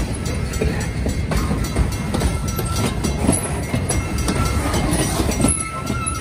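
Loaded railroad flatcars rolling past, with a steady rumble of wheels on rail and irregular clacking over the rail joints. A thin, steady high squeal sets in about a second before the end.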